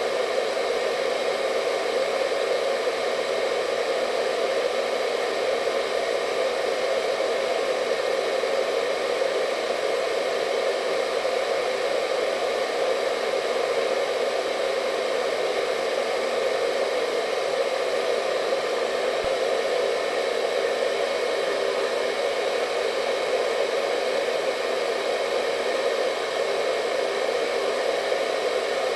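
Hair dryer running continuously at a constant setting: a steady airy hum with a faint whine above it, unchanging throughout.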